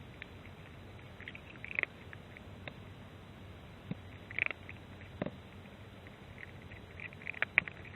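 A stray cat eating, three short bursts of crisp chewing clicks a few seconds apart, over the steady hiss of rain.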